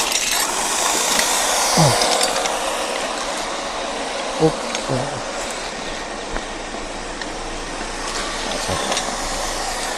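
Steady rushing wind and road noise as the scrap truck is driven, with a few brief blips of voice.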